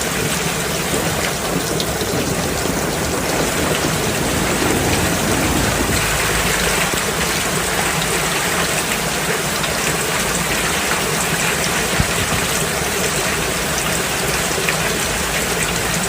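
Steady heavy rain falling and pattering on surfaces, a dense even hiss with many drops and one sharp tick about twelve seconds in.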